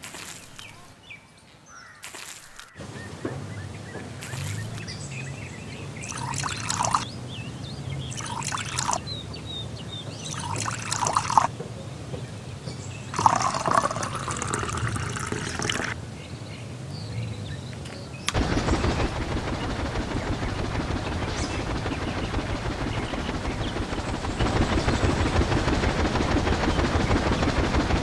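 Water pouring in a steady rush that starts abruptly about two-thirds of the way in and grows louder near the end, after a run of short separate splashes or sloshes.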